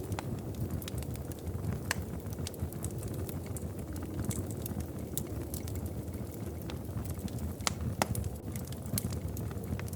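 Wood fire crackling in a fireplace: frequent sharp pops and snaps over a steady low rumble, with one louder pop about eight seconds in.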